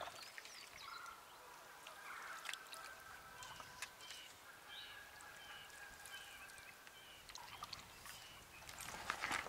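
Faint distant bird calls over quiet lakeside air: drawn-out calls with short chirps among them. A few louder clicks and rustles come near the end.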